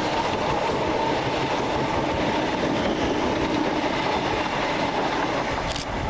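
Two coupled Class 321 electric multiple units passing through the station without stopping: a steady run of wheel and rail noise, with a faint steady tone.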